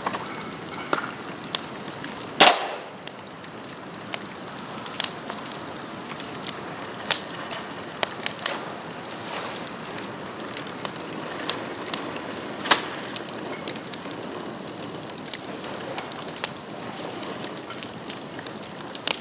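Bamboo bonfire burning: irregular crackling and sharp pops, the loudest about two and a half seconds in and another near thirteen seconds, as heated bamboo pieces burst. Under it runs a steady hiss and a thin, steady high whistle.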